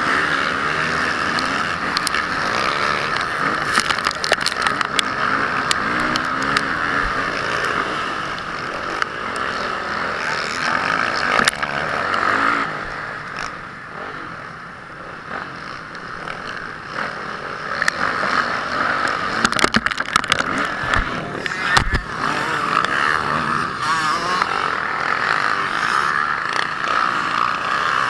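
Honda CRF450R motocross bike's 450 cc single-cylinder four-stroke engine running hard, the throttle rising and falling, with a quieter lull about halfway through. Sharp knocks and clatters run throughout.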